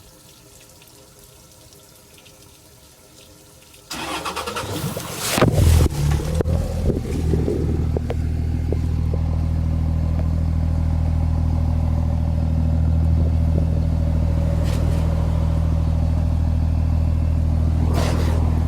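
Cummins diesel engine cranked over by its starter and catching about five seconds in, with a loud, rough burst as water poured into the exhaust is blown out of the muffler, then settling into a steady idle.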